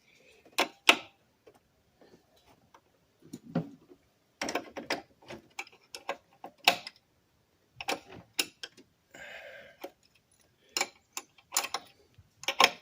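Hand tools working a nut on the golf cart engine: irregular sharp metal clicks and clinks, several in quick runs, with a short rasping noise about nine seconds in.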